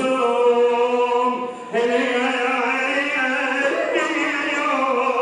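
Chanted Arabic religious lament (a munshid's nasheed): vocals holding long, steady notes, with a short break about a second and a half in before the next held note.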